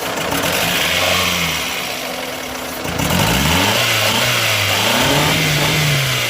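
Taxi's four-cylinder petrol engine running and being revved: a short rev about a second in, then a longer rev from about three seconds, held until it eases off near the end. The car would not start before, and is now firing after roadside work on its spark plugs and ignition coil.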